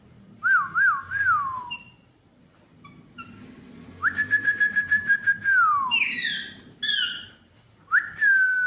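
Pet parrot whistling: three quick rising-and-falling whistles, then a long held whistle with a fast warble that slides down at its end. Two harsher calls slide downward, and near the end a whistle rises and then holds.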